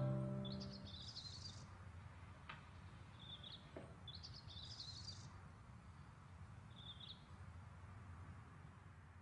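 A last piano chord dies away in the first half-second, then birds chirp in short high phrases, four times, over a low steady hum.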